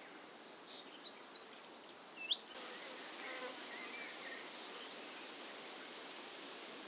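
Quiet outdoor ambience: a steady hiss with a few faint bird chirps and a couple of small clicks in the first half. About two and a half seconds in, the background noise steps up a little and then stays even.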